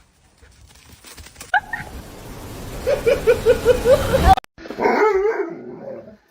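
A dog yipping in a quick run of short, high barks, about four a second. After an abrupt cut, a wavering pitched whine follows.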